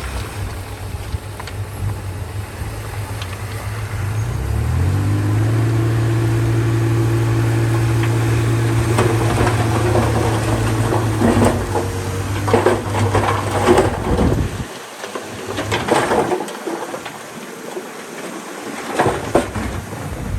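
Heavy diesel earthmoving engine running, then revving up about four seconds in and holding a steady high pitch for about ten seconds before dropping back. Metal knocks and clanks come over it in the second half.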